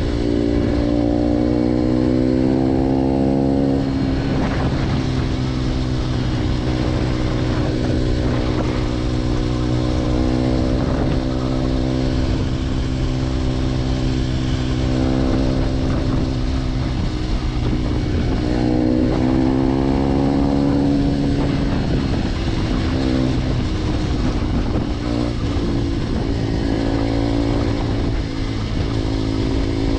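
Motorcycle engine running through a new G.P.R aftermarket exhaust: a steady low drone, with the pitch rising and falling several times as the revs change.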